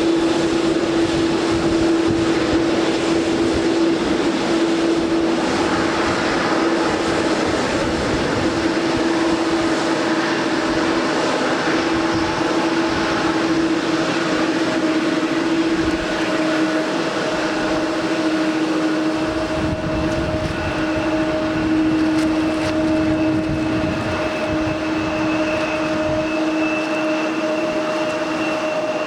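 Airliner engines running with a steady hum and a higher whine joining about halfway through, over a constant rush of noise.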